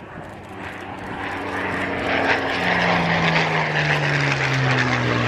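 Supermarine Spitfire PR Mk XI's Rolls-Royce Merlin V12 engine in a flypast. It grows louder over the first two seconds or so, then becomes a steady drone whose pitch slowly falls as the aircraft passes.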